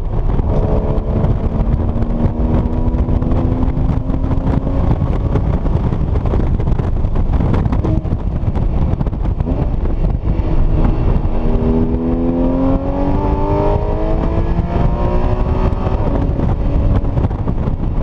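Porsche Cayman S flat-six engine heard from inside the cabin while being driven hard, over a heavy rumble of road and wind noise. The engine note climbs under acceleration twice, once near the start and again about two-thirds of the way through.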